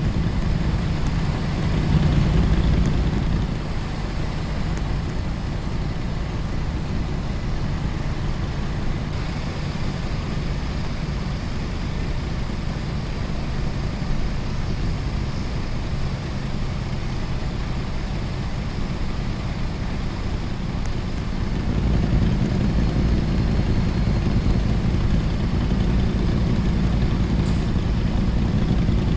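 A vehicle running, a steady low rumble that swells briefly about two seconds in and rises again from about twenty-one seconds on.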